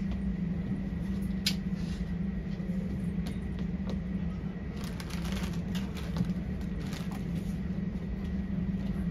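Steady low rumble and hum of a passenger train coach interior, with a few light clicks and rustles about a second and a half in and again around the middle.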